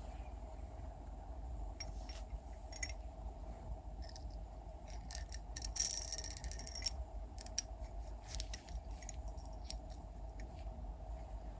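Small metal parts clicking and clinking, with a brief bright metallic rattle about six seconds in, over a steady hum.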